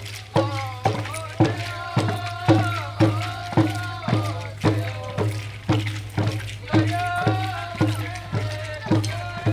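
Papua New Guinea traditional dance song: a group singing in unison over hand drums beaten in a steady pulse about twice a second. A steady low hum runs underneath.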